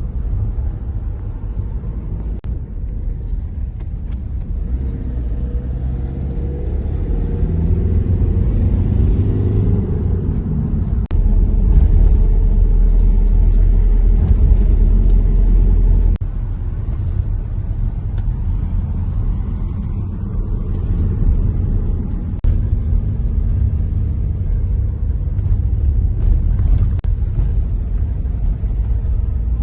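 Campervan on the move: engine and road rumble, with the engine note rising as it speeds up about five to ten seconds in. A heavier low rumble comes in for about five seconds from around eleven seconds in, then eases back to a steady drive.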